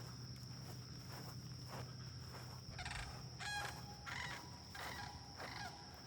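Sandhill cranes calling: a rattling call about three seconds in, followed by several shorter calls, over a steady high drone of insects.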